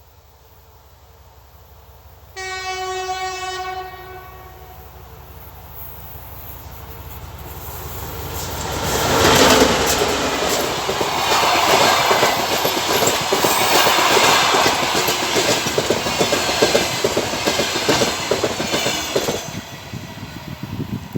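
TEP70 diesel passenger locomotive gives one short horn blast, then runs past loud. It is followed by passenger coaches clattering rhythmically over the rail joints, which fall away near the end.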